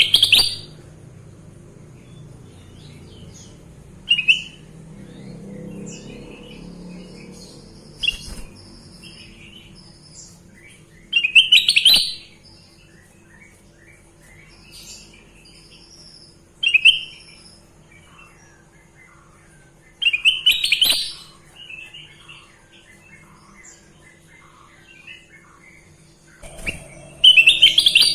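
Kutilang emas bulbul singing: loud, bright chirping phrases repeated every few seconds, with softer twittering notes between them.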